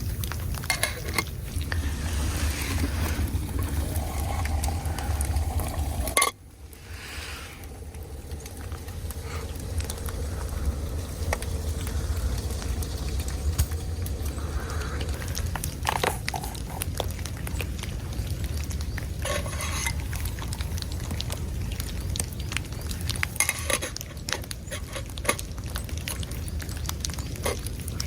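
A metal spoon clinking and scraping in a metal pot, stirring, with many small clinks over a steady low rumble. The sound drops off abruptly about six seconds in, then picks up again.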